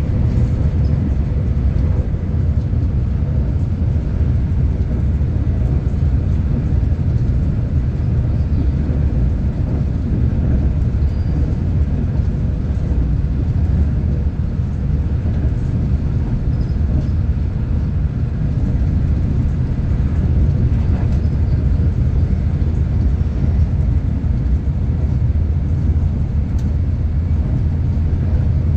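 Steady low rumble of a V/Line passenger train running along the line, heard on board.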